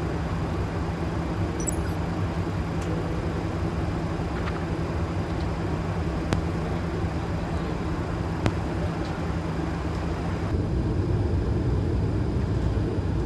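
Steady flight-deck noise of a Boeing 737 in descent: a low rumble and hum with airflow hiss. Two sharp clicks come about six and eight seconds in. About ten seconds in, the hiss thins and the low rumble grows slightly.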